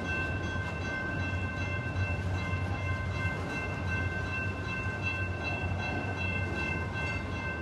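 Freight train cars rolling past, a steady low rumble with several thin, steady high-pitched tones running over it.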